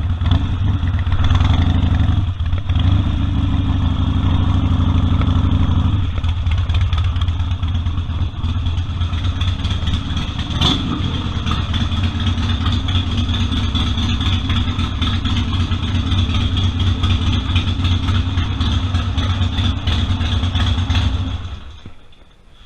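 Harley-Davidson Sportster 1200 Custom's air-cooled V-twin running steadily, much of it at idle, then cut off near the end.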